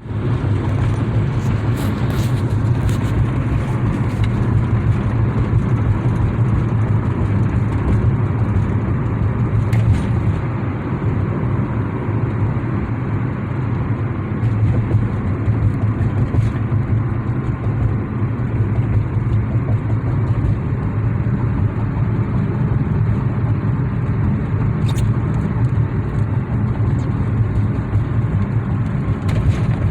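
Strong hurricane wind blowing steadily, with a deep rumble on the microphone and a few faint clicks.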